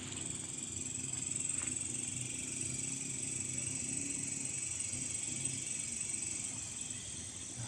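Night insects such as crickets chirring steadily in a high, even drone, over a low constant hum.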